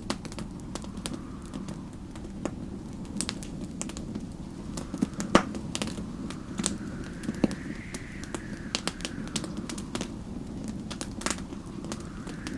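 Wood fire crackling with frequent sharp pops, the loudest about five seconds in, over a steady low rumble of storm wind. A faint wind whistle rises and falls slowly, peaking a little past the middle and rising again near the end.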